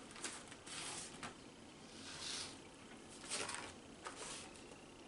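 Faint, irregular crunching and crackling of freeze-dried Skittles being chewed.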